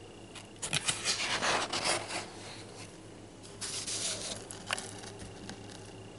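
Paper pamphlet pages being handled and turned: two bursts of rustling, the first about a second and a half long, the second shorter and followed by a light tap.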